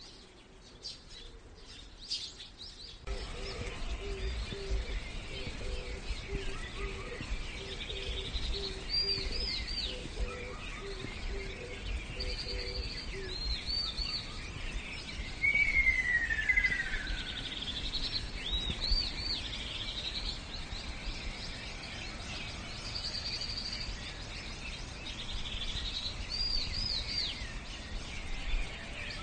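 Several birds chirping and calling over a steady low background rumble, starting about three seconds in, with short repeated high chirps and one falling whistled note about halfway through.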